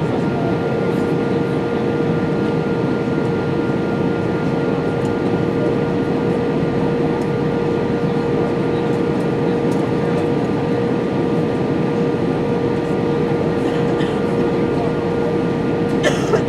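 Steady cabin noise inside an Airbus A320-232 in flight: the rush of air past the fuselage and the hum of its IAE V2500 engines, with a steady droning tone under it. A brief hiss sounds near the end.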